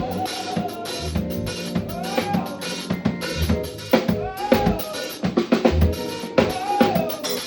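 Live band music with the drum kit to the fore: kick drum and snare strikes over bass and other pitched instruments.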